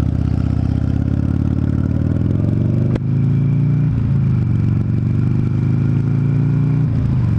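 Buell XB12Scg's air-cooled V-twin engine pulling under acceleration, its pitch rising, dropping sharply about three seconds in at a gear change, then rising again and falling near the end.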